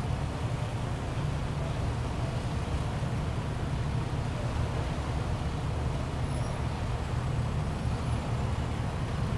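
Steady low rumble of idling vehicle engines, with no distinct events.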